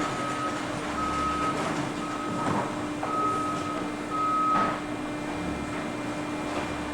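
Industrial baler running with a steady machine hum, while a high electronic warning beep sounds about once a second for the first five seconds and then stops, with a few knocks in between.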